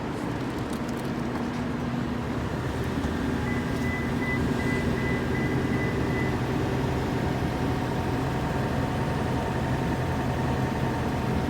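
Steady hum and hiss of a running vehicle, with low steady tones under it. From about three and a half to six seconds in there is a faint, rapidly repeating high beep.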